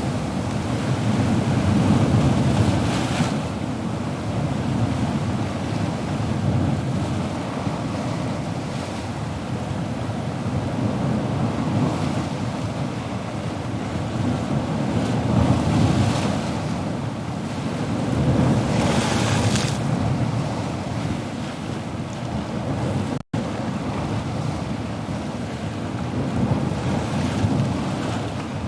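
Ocean surf: a continuous wash of waves that swells and ebbs, with breakers hissing up about three seconds in and again around twenty seconds. There is a split-second gap in the sound a little after twenty-three seconds.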